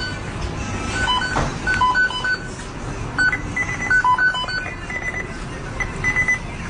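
A run of short electronic beeps at a few different pitches, some single and some in quick pairs and triples, over a steady background noise.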